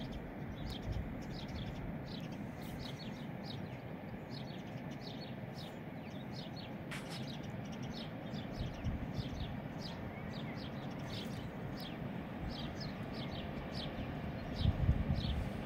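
Small birds chirping over and over in short, high, falling chirps, above a steady low outdoor rush. A louder low rumble comes near the end.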